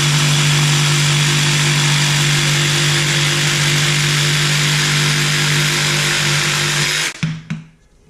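DeWalt DCS331 cordless jigsaw running steadily, cutting through a 2x4 on a 5 Ah battery, then stopping about seven seconds in, followed by a few light knocks.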